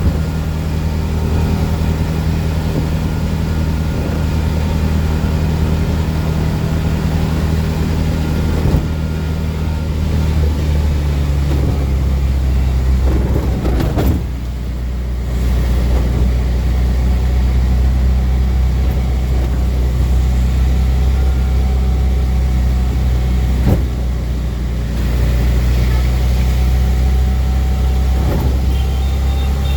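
Auto rickshaw's single-cylinder engine running steadily during a ride, heard from on board; its note drops to a lower pitch about eleven seconds in. A few short sharp knocks come through along the way.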